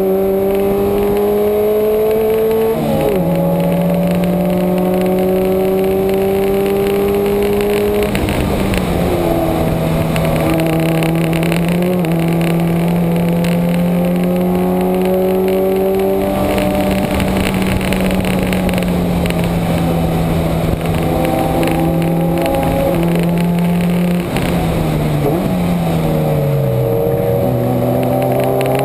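A Subaru's flat-four engine pulling hard on track. Its note climbs between gear changes, with a sharp upshift drop about three seconds in and more shifts near eight and twelve seconds. After a long steady stretch, the pitch steps down near the end as the car slows for a corner.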